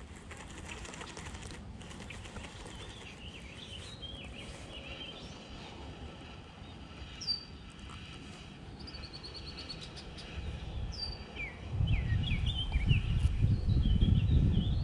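Songbirds chirping and warbling, with a few high whistled notes that drop in pitch. From about twelve seconds in, a loud low rumble rises over them.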